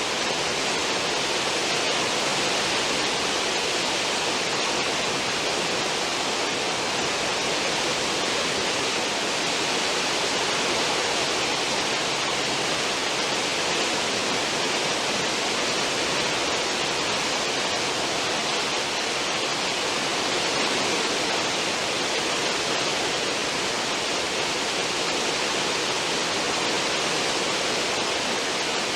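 Churning stern wake of a cruise ship: a steady, even rush of foaming water with no change throughout.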